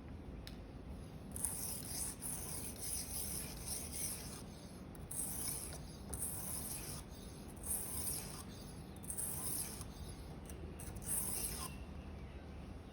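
Steel knife blade stroked across a sharpening stone in light, rasping strokes, roughly one a second, refining the burr on the edge. The strokes begin about a second and a half in and stop shortly before the end.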